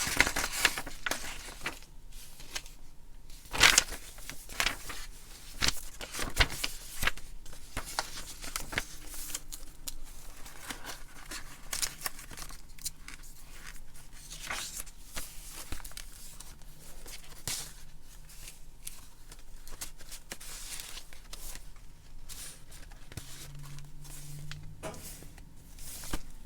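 Pages of a handmade junk journal being turned and handled: stiff paper rustling and crinkling, with irregular sharp flicks and taps, the loudest about four seconds in.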